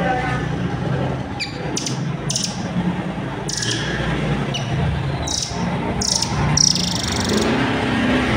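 Rambatan Doraemon (velvet-fronted nuthatch) calling: a run of short, sharp, high chirps every second or so, ending in a longer high trill, over a steady low background of crowd noise.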